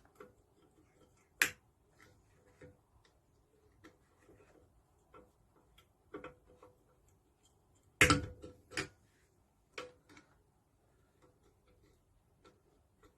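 Scattered small metallic clicks and taps of hand tools working a split pin out of the Lister D engine's governor linkage, with a sharp clack about a second and a half in and a cluster of louder knocks around eight seconds.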